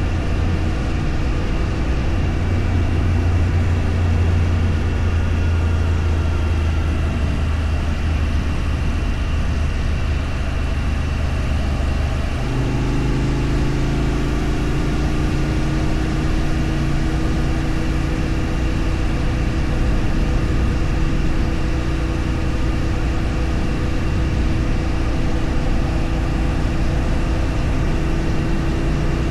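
A vehicle engine running steadily on the road, its note changing about twelve seconds in.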